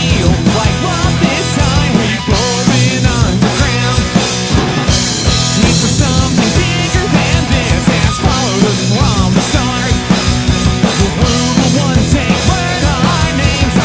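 A live punk rock band playing with distorted electric guitar, bass and a fast drum kit beat.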